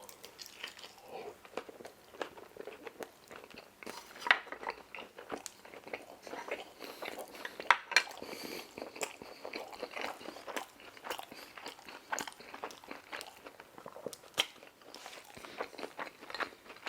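Close-up chewing and crunching of food: a run of irregular crisp clicks and smacks, the sharpest about 4 and 8 seconds in.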